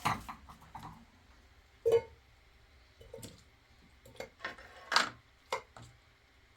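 Irregular knocks and clatters of objects being handled and set down. The loudest come right at the start, about two seconds in (with a short ring), and about five seconds in, with smaller taps between.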